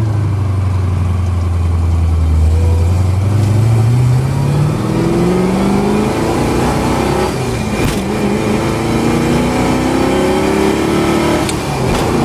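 1967 Mustang GT fastback's V8 engine accelerating hard through the gears of its manual transmission, heard from inside the cabin. The engine note climbs steadily, breaks off about eight seconds in and again near the end at the gear changes, and climbs again in between.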